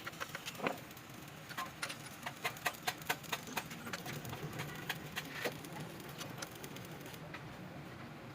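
Irregular sharp clicks and light taps, several a second, over a low steady hum.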